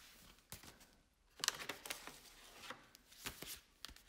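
Faint handling noise: short rustles and soft clicks of pre-cut sanding-paper envelopes being handled in a plastic storage drawer, in a few separate bursts.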